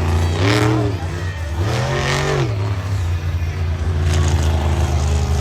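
Monster truck engine running loud and steady, revved up and back down twice in quick succession.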